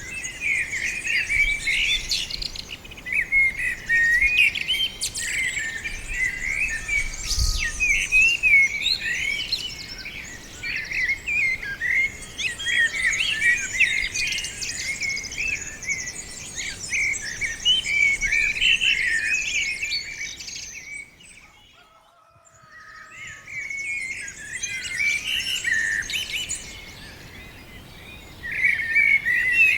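A dense chorus of small songbirds chirping and twittering, many short overlapping calls at once. The chorus fades almost to nothing for a second or two about two-thirds of the way through, then picks up again.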